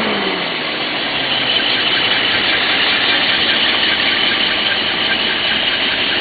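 Datsun 280Z's 2.8-litre inline-six engine dropping back from a brief throttle blip at the start, then idling steadily and smoothly, with a light, even ticking in the background.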